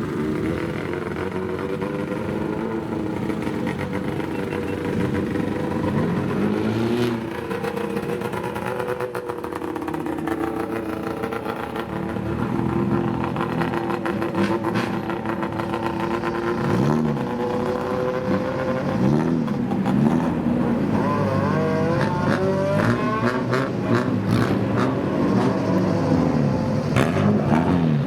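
Loud engines of kaido racer cars (customised old Japanese cars) running. The engine note holds fairly steady at first, then rises and falls over and over in the second half as the throttle is blipped in quick revs.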